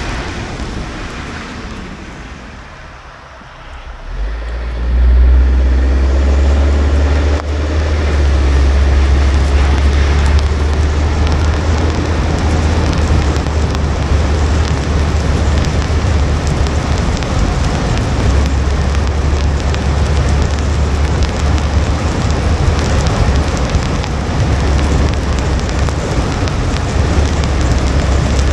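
Car driving on a wet road in the rain: a steady hiss of tyre spray and rain, with a strong low rumble that comes in about four seconds in after a brief quieter spell and then holds steady.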